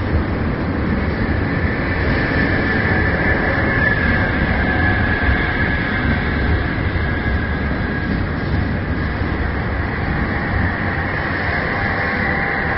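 Steady running noise of a train heard from inside a moving passenger coach: a low rumble of wheels and running gear with a faint, steady high whine above it.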